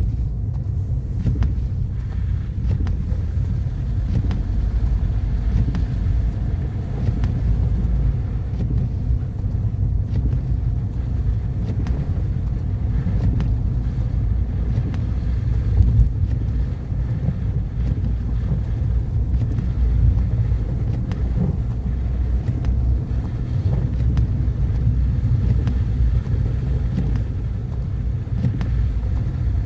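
A car driving: a steady low rumble of engine and tyres on the road, with one brief bump a little past halfway through.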